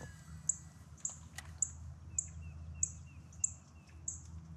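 Birds chirping: a short, high chirp repeating about twice a second, with a quick run of small falling notes in the middle, over a faint steady low hum.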